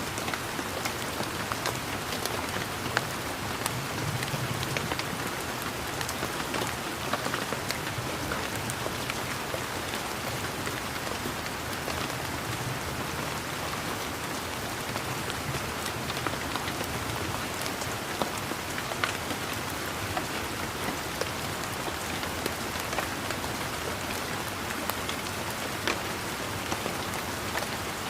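Steady rain falling, an even hiss with many separate drops ticking and pattering throughout.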